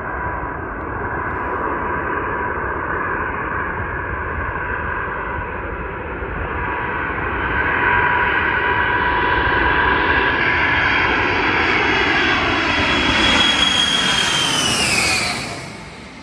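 Jet aircraft passing close by, its engine noise and whine growing louder for most of the time. Near the end the whine drops sharply in pitch as it passes, and the sound fades fast.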